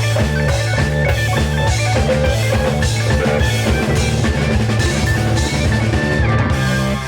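Live rock band playing, with electric guitar, bass and drum kit in a steady rhythm. About six and a half seconds in, the drums and guitar drop out, leaving a low held note.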